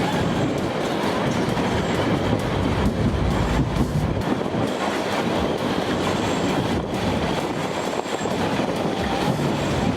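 Narrow-gauge park railway train running, its wheels rattling over the rails in a steady clatter, with a faint high squeal now and then.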